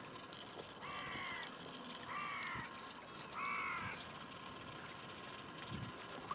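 A bird calling three times, each call about half a second long and a second or so apart.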